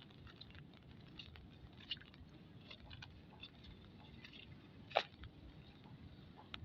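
Faint raindrops pattering as a scatter of irregular small ticks over a low rumble, with one louder sharp click about five seconds in.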